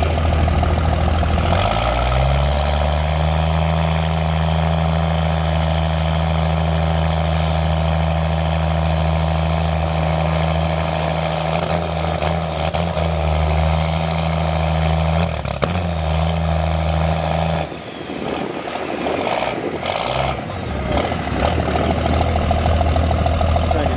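An engine running steadily at a held speed. Its pitch steps up about two seconds in, and the low engine note drops away near the end before a steady running sound comes back.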